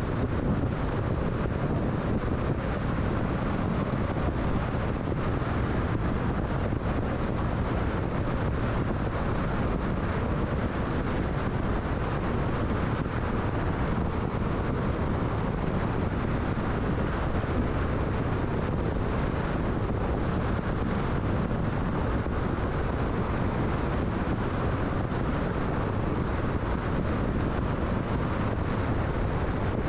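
Steady road and wind noise of a car cruising at freeway speed: an even, unchanging rush of tyres and wind with no gear changes or other events.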